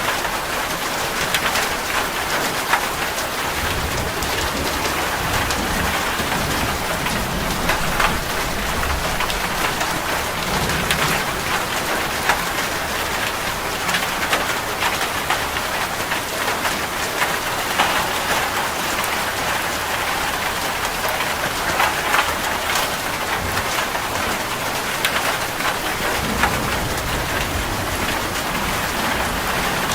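Steady rain falling, with many close drops ticking on a hard surface and a faint low rumble now and then underneath.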